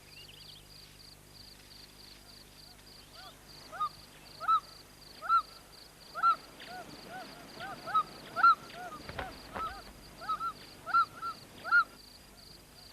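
A bird calling: a dozen or so short, arched calls in an irregular series, over a steady pulsing chirp of insects. A low thump comes about nine seconds in.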